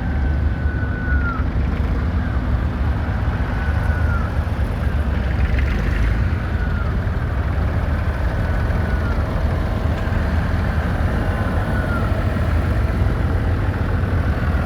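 Vintage tractor diesel engines running steadily with a deep low rumble. A faint high tone slides down in pitch every couple of seconds over the top.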